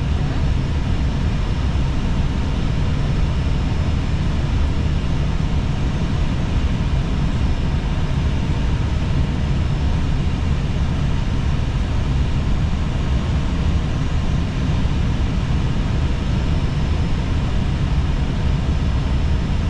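Steady cockpit noise of an Airbus A320 on final approach: an even rush of airflow and engine noise with a faint steady hum, unchanging throughout.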